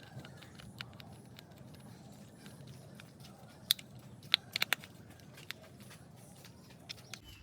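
Scattered light clicks and ticks of hard plastic toy parts being handled while a small screw is tightened into a toy auto rickshaw's plastic body, with a few sharper clicks around the middle.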